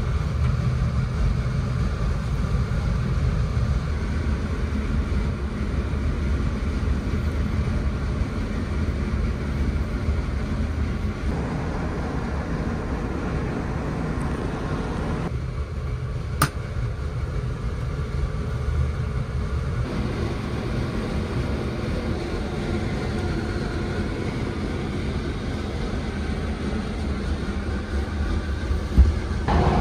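Steady low rumble of the West Express Ginga train running, heard inside the passenger car. A single sharp click sounds about halfway through and a short knock near the end.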